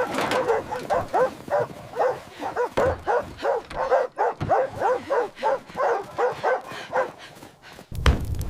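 A dog barking in a rapid, even series, about three barks a second, stopping after about seven seconds. A louder, noisier sound comes in near the end.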